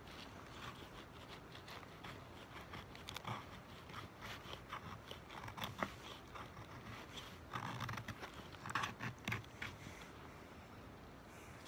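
Dry kindling and twigs being handled and broken by hand: irregular small scrapes, crunches and sharp snaps, with a louder cluster about two-thirds of the way through.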